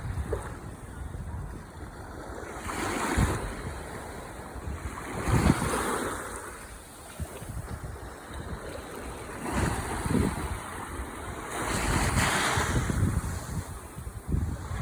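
Ocean waves breaking and washing up the shore: four waves swell and fall away over a constant surf hiss, with wind rumbling on the microphone.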